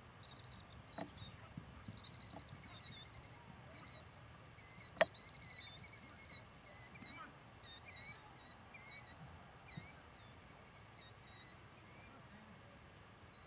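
A small songbird singing faint, high-pitched trilled phrases and short chirps, stopping near the end. One sharp click sounds about five seconds in.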